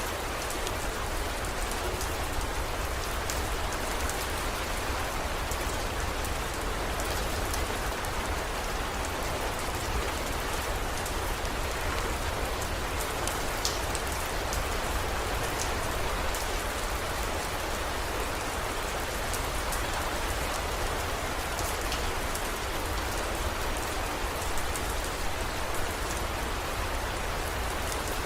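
Heavy rain falling steadily, with scattered sharp drop ticks over a constant hiss and a steady low rumble underneath.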